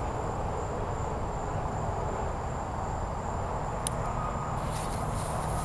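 Steady background noise with a continuous thin, high-pitched tone that stops about four and a half seconds in, and one faint click just before that; no bang.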